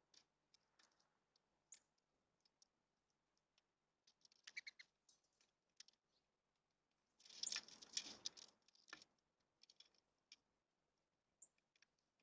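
Faint sounds of a bird at a bird bath: scattered light taps, a brief cluster about four and a half seconds in, then a louder burst of splashing lasting about two seconds from around seven seconds in.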